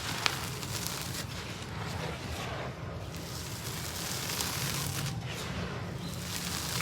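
Gritty dry cement being sifted and crumbled: a continuous crackling, grainy rustle with scattered sharp ticks and one sharp click just after the start.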